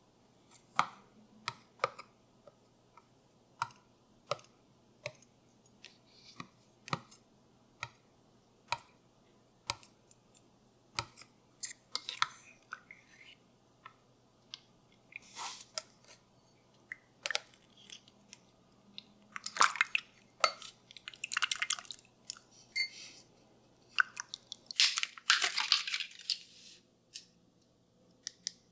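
Scattered light clicks and taps of kitchen utensils and food being handled, with a few longer rustling or scraping bursts in the second half, over a faint steady low hum.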